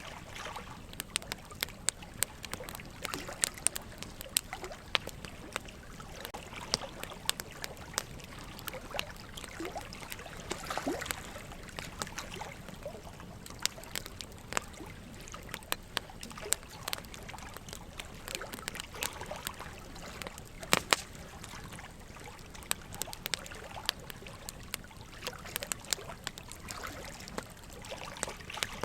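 Wood logs burning in a fireplace, crackling with frequent irregular sharp pops, over a steady trickle of running water.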